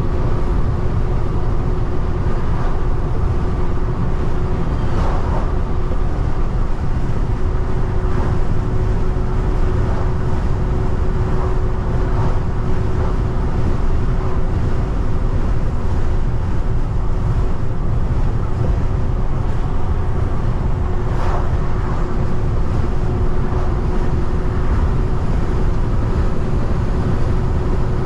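Peterbilt 589 dump truck under way, heard from inside the cab: a steady low diesel drone with road noise and a constant hum, and a couple of faint knocks.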